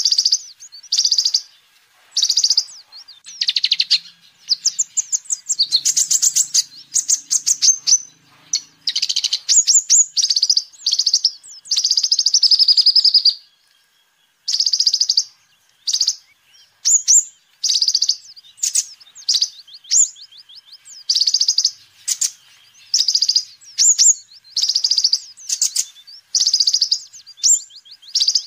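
A sunbird, the 'kolibri ninja' of Indonesian bird keepers, singing in rapid high-pitched chirps and trills: short bursts come about once a second, with a longer trilling run about halfway through and a brief pause just after.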